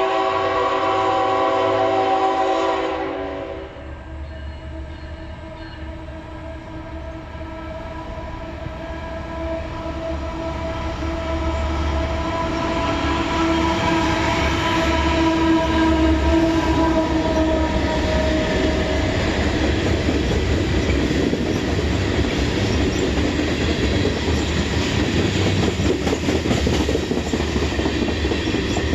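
Train horn blowing a loud chord that cuts off about three and a half seconds in, then the train rumbling closer, growing louder, and its cars rolling past with a steady clatter of wheels on the rails.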